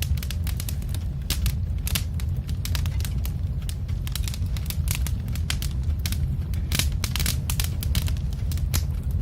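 Log fire crackling: irregular pops and snaps over a steady low rumble.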